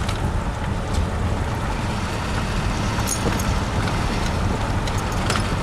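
Steady wind rush on the microphone over the low rumble of a moving vehicle's engine and road noise, with a couple of faint clicks about three and five seconds in.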